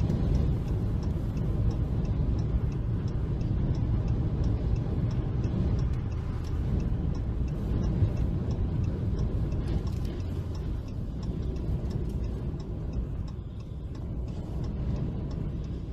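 Road noise of a moving car heard from inside, a steady low rumble, with a faint even ticking running through it.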